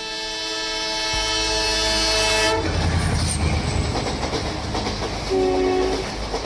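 Passenger train's horn sounding one long chord-like blast that grows louder for about two and a half seconds. It stops suddenly, and the rumble and clatter of the train running past on the track follows.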